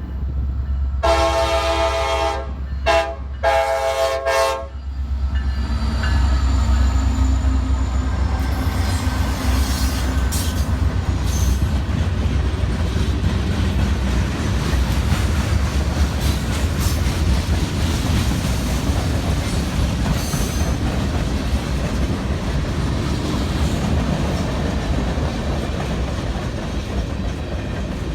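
Diesel freight locomotive's multi-chime air horn finishing the grade-crossing signal in the first five seconds, a long blast, a short one and a long one. The locomotive and freight cars then roll steadily past with wheel clatter over the rail joints, a low engine rumble and occasional faint wheel squeals.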